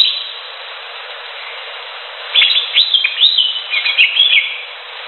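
Cucak hijau (green leafbird) singing: a short phrase ends at the very start, then a quick run of sweeping, chattering whistled notes about halfway through, over a steady background hiss.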